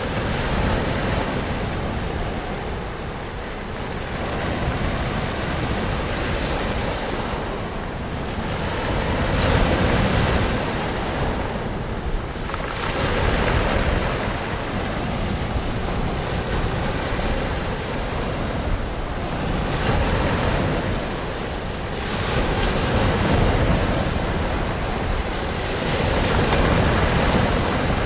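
Ocean waves breaking and washing on a shore, a continuous rushing surf that swells and eases every few seconds.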